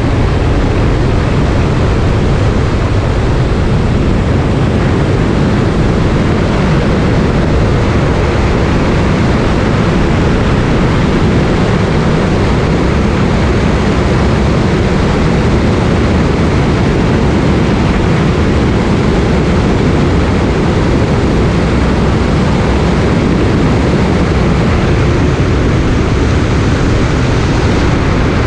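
Cessna single-engine light aircraft's piston engine and propeller running, a loud, steady drone with no change in pitch or level.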